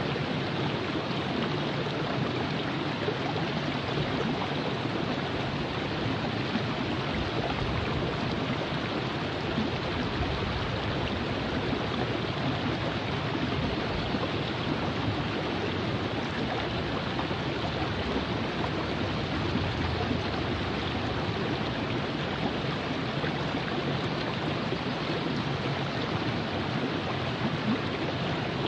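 Virgin River flowing: a steady, even rush of water with no breaks or changes.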